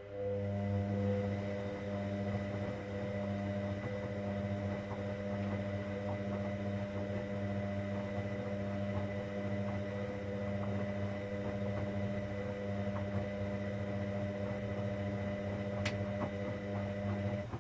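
Hoover Dynamic Next washing machine giving a steady electrical hum for about seventeen seconds, starting and stopping abruptly, with a single click near the end.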